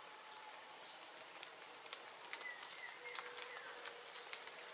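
Light rain in the forest canopy: a faint, even hiss with scattered drops ticking on leaves, and a few short high chirps about halfway through.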